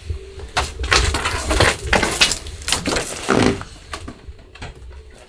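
A run of irregular crunching and rustling noises, loudest and densest in the first three seconds and then thinning out, with a brief pitched sound about three and a half seconds in.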